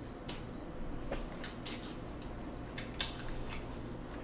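Close-miked wet eating sounds: a person chewing food with scattered soft smacks and squishy clicks of the mouth.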